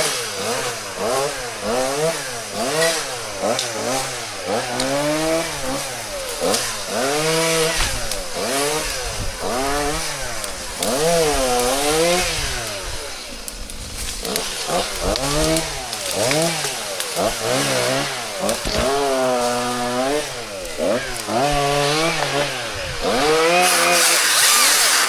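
Two-stroke chainsaw running, its engine pitch repeatedly dipping and rising about once a second, louder near the end.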